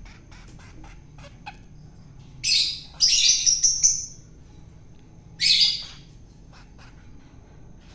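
Long-tailed shrike giving loud, harsh squawking calls in three bouts: one about two and a half seconds in, a quick run of several just after, and one more near the six-second mark.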